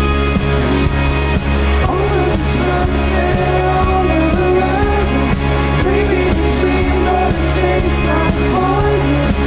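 Live rock band playing a song at a steady loud level: bass and drums underneath, a melodic line wavering in the midrange, and cymbal crashes recurring every second or two.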